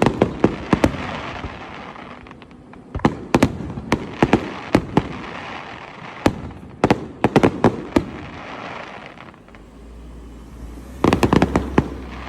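Fireworks going off in rapid volleys of sharp bangs, in four clusters with short lulls between them.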